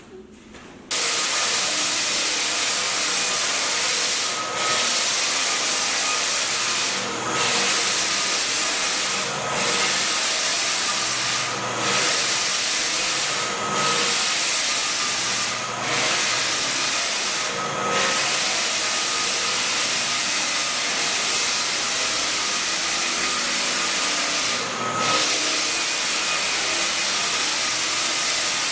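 Floor sanding machine switching on about a second in and running over a hardwood floor, a loud steady hissing noise with a faint whine, easing briefly every two seconds or so.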